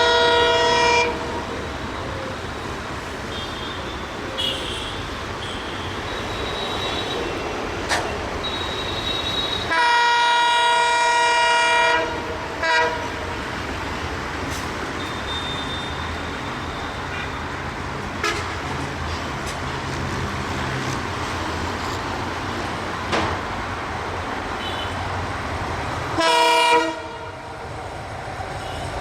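Diesel locomotive horn sounding over the steady running noise of a broad-gauge train. There is a short blast at the start, a long blast of about two seconds about ten seconds in followed by a brief toot, and another short blast near the end.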